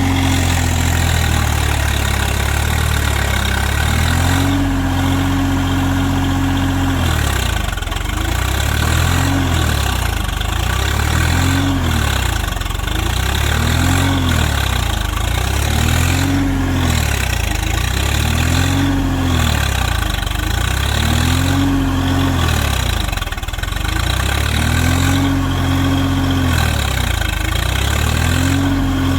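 Swaraj 742FE tractor's diesel engine labouring under load while stuck in deep mud. It holds high revs at first, then revs rise and fall repeatedly, about every two to two and a half seconds.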